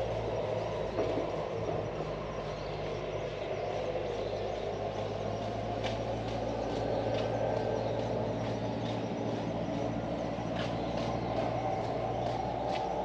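Steady distant vehicle rumble with a low hum, with a few short high chirps over it.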